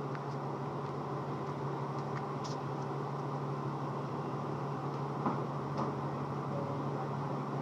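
Infiniti G35's 3.5-litre V6 idling steadily through the stock exhaust, an even low hum with no revving, with a few faint clicks.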